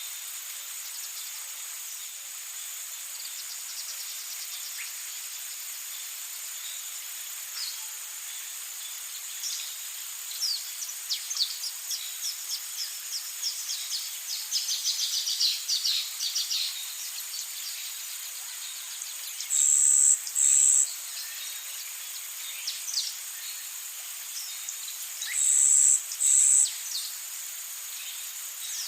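Rainforest ambience: a steady high insect drone, with a bird trilling in a rapid series of short high notes through the middle. Twice, a loud, high call of two notes rings out over it, the loudest sound.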